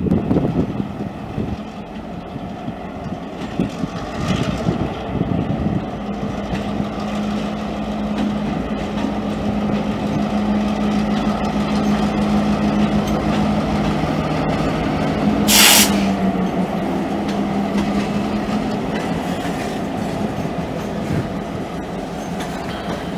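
Massachusetts Central diesel freight locomotive running past with its train, a steady engine drone over the rumble of wheels on rail. About two-thirds of the way through comes a short, loud hiss of compressed air.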